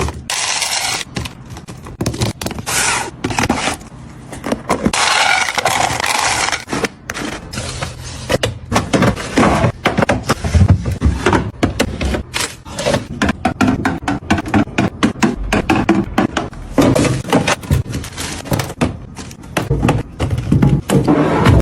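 Busy handling sounds of objects being moved and set down: irregular scraping, knocks and clacks, many per second.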